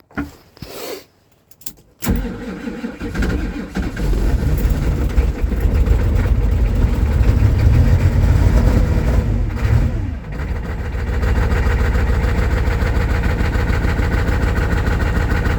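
1988 Ford F-Super Duty's 7.3 L IDI V8 diesel on a very cold start with weak batteries: after a couple of short noises it cranks from about two seconds in, catches and runs unevenly and loud, dips briefly around ten seconds, then settles into a steady idle.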